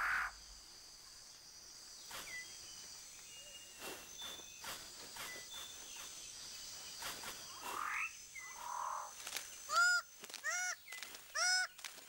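Quiet forest background with a few faint rustles and clicks, then near the end a bird of paradise calling loudly: a quick run of repeated, arching calls.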